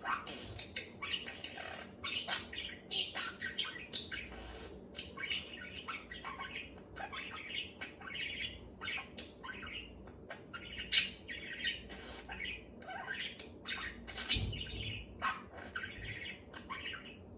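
Budgerigar chattering to itself: a continuous run of quick warbles, chirps and clicks, with a couple of sharper, louder squawks partway through.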